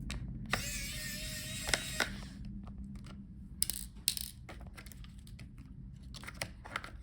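Electric screwdriver with a T5 Torx bit whirring for about a second and a half as it backs out the screws holding the laptop's graphics card board. Several small clicks and taps of screws and parts being handled follow.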